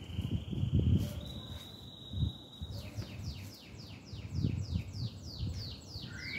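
A songbird singing: a long steady whistled note that steps up in pitch, then a quick run of about a dozen falling notes, about three a second. Under it, low rustling thumps come from the sheep's fleece and hide being pulled and cut from the hanging carcass.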